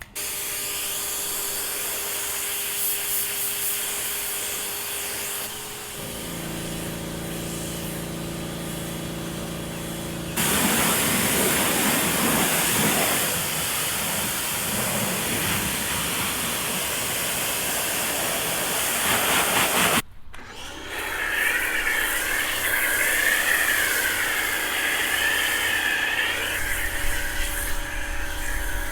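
Car-wash water spray hissing hard, in several short clips that cut in and out abruptly, with a steady machine hum under parts of it.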